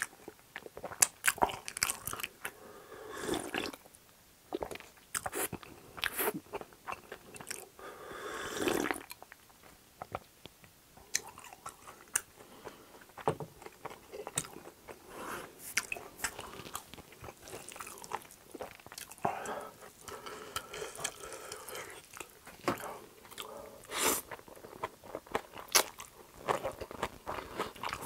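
Close-miked eating: chewing and crunching food, with many sharp mouth clicks and smacks.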